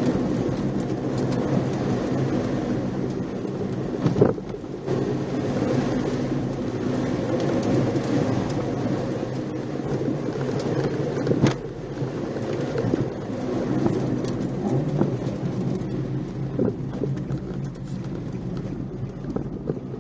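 Nissan March 12SR's 1.2-litre four-cylinder engine running as the car is driven, its pitch drifting up and down, over steady tyre and road rumble. Two sharp knocks stand out, about four seconds in and again near the middle.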